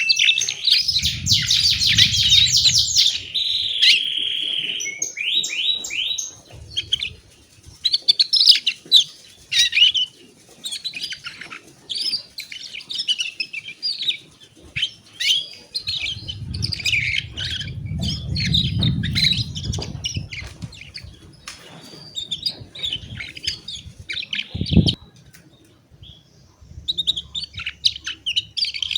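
Canary singing: fast rolling trills at the start, then a long run of varied chirps and short phrases. A low rumble comes and goes underneath.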